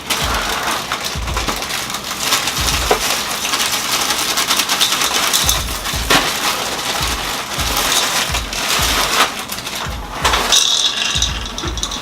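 Crunchy cereal being chewed and crunched loudly and continuously, with spoons clicking against bowls.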